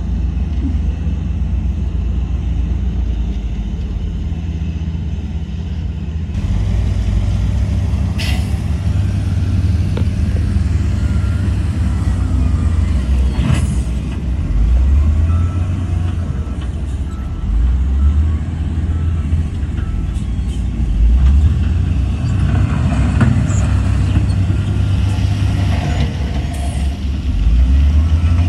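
Heavy diesel earthmoving machinery running, its engine rising and falling in pitch several times as it works under load, with a few short sharp knocks.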